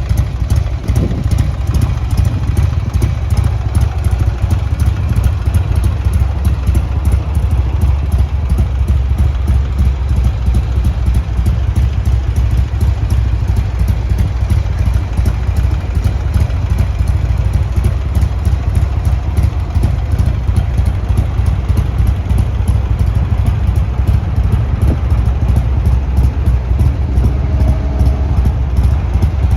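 Buell XB12Ss motorcycle's 1203 cc air-cooled V-twin engine idling steadily, with no revving.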